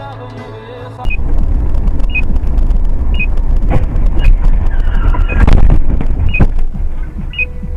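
Loud, low vehicle rumble with a short high-pitched warning beep repeating about once a second. Several sharp knocks come through in the middle.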